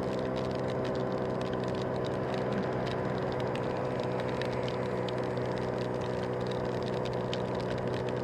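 Scooter engine running at a steady speed while riding, with raindrops pattering as many small sharp ticks over it.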